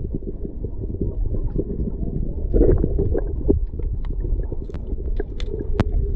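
Water washing and gurgling around a paddled kayak, heard muffled as a steady low rumble, with scattered small knocks and clicks.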